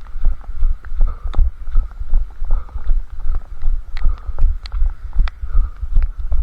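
A runner's footfalls on pavement, a steady rhythm of low thuds about two and a half steps a second, picked up through a head-mounted camera, with light sharp taps between them.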